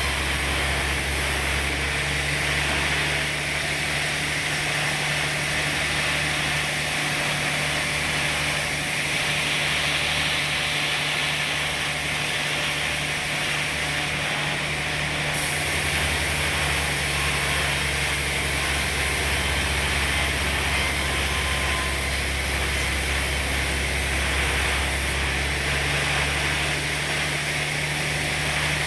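Sawmill running steadily while sawing a large teak log: a constant low machine hum under a higher hiss from the saw.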